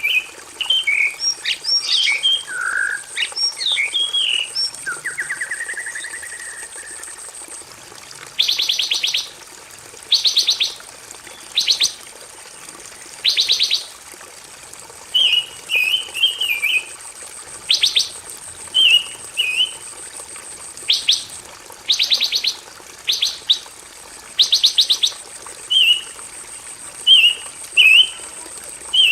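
Pancawarna songbird singing continuously: short chirpy warbled phrases alternating with rapid buzzy trills, one every second or two, with a long falling buzzy note early on. A steady high-pitched whine runs underneath.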